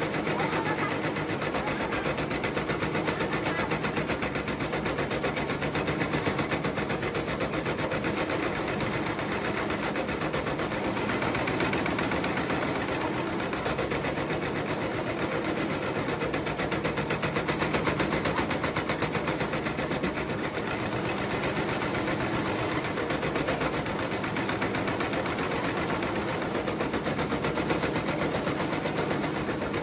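Electric pomelo peel and pith dicing machine running, its blade chopping in a fast, even clatter of rapid repeated strokes.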